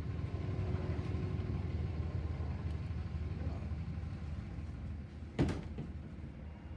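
Truck engine running steadily with a low rumble, and a single sharp knock about five and a half seconds in.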